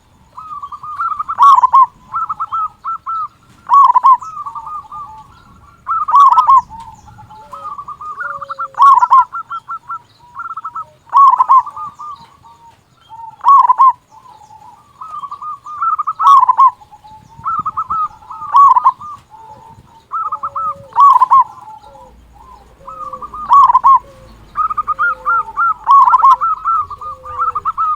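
Zebra dove (perkutut) singing: phrases of quick stuttering notes, each ending in a loud coo, repeated about every two to three seconds.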